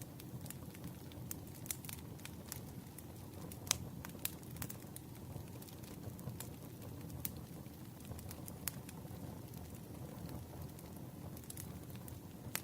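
Campfire burning: a steady low rustle of flames with scattered sharp pops and crackles of burning wood, the loudest pop a little under four seconds in.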